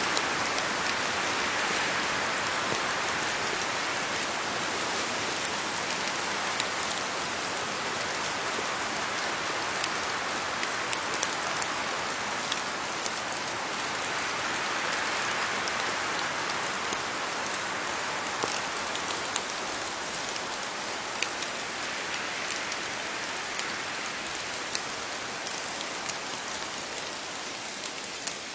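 Steady rain falling on leaves, a continuous hiss with many separate drops ticking sharply on top.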